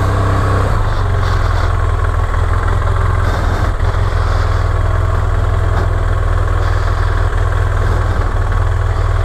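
Motorcycle engine idling steadily with a deep, even rumble.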